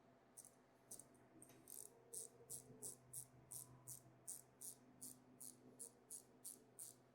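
Faint, even clicking of a ratchet wrench being worked, about three clicks a second, as a bolt is run in.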